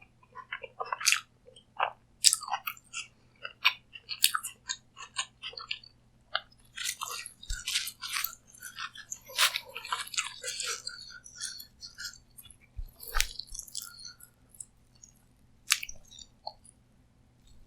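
Close-miked eating sounds: a person biting and chewing food, with crisp crunches and wet mouth clicks, busiest about midway.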